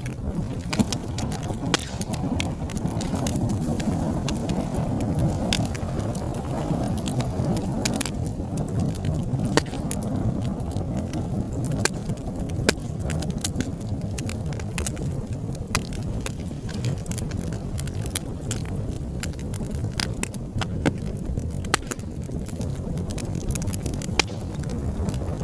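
Wood fire crackling, with many irregular sharp pops and snaps over a low, steady rumble of burning flames.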